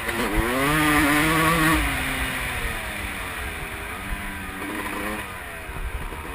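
Motocross bike engine revving, its pitch climbing through the first couple of seconds, dropping sharply, then falling and rising again with the throttle.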